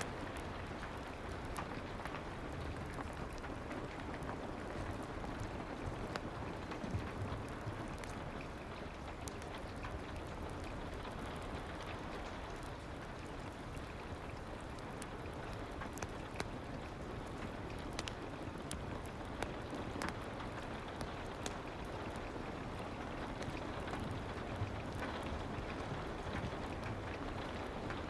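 Soft rain, a steady even patter, with occasional faint crackles from a fireplace.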